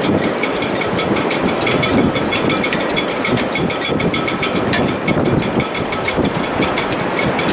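Strong wind in a sailboat's shrouds and rigging in heavy weather: a loud, steady rushing noise with a fast, even high ticking running through it.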